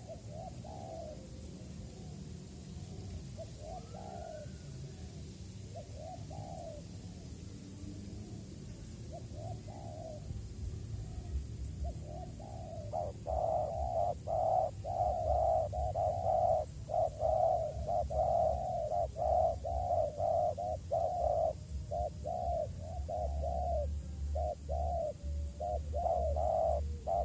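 Spotted doves cooing. The calls come scattered and faint at first, then from about thirteen seconds in turn into a loud, rapid run of repeated coos.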